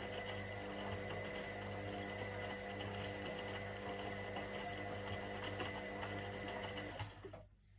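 Indesit IWC 71252 washing machine running, a steady mechanical whir with a constant high whine over a low hum, which cuts off sharply about seven seconds in, leaving only a faint low hum.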